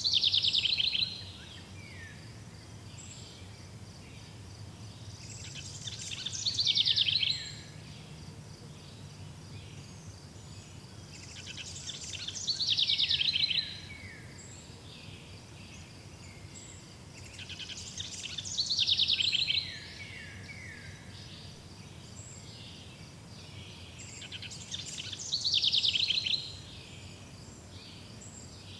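Forest ambience: a songbird sings the same fast run of notes about every six seconds, five times. Each song lasts about a second and a half, grows louder and then cuts off, and ends in a few falling notes. Under it runs a steady pulsing insect trill.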